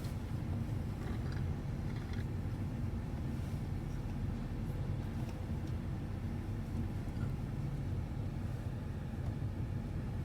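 Steady low rumble of an automatic car wash tunnel heard from inside the car as it rides through.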